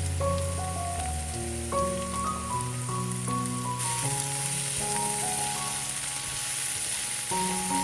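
Background music with held notes, over a steady sizzle of food frying in oil in a pan. The sizzle turns brighter and louder about four seconds in.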